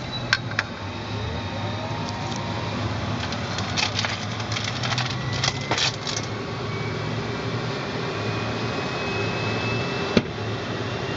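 Embraer Phenom 100 cockpit: a steady hum with a run of sharp switch clicks, then a faint whine that climbs slowly in pitch, the sound of the Pratt & Whitney PW617F turbofan beginning to spool up at engine start. A single click comes near the end.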